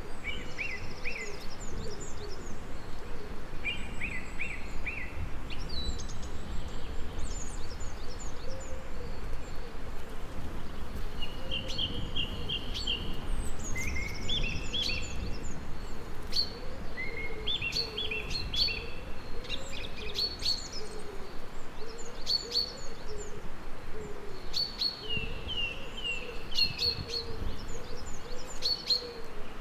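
Songbirds chirping and trilling in short repeated phrases, over a continuous low wavering hum and a faint low rumble.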